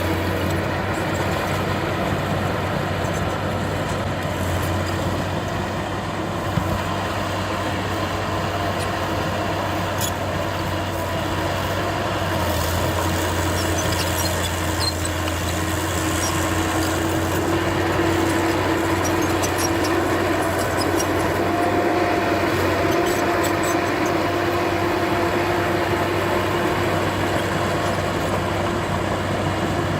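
Diesel engine of heavy earthmoving machinery running steadily, a low continuous hum with a tone that rises slightly partway through.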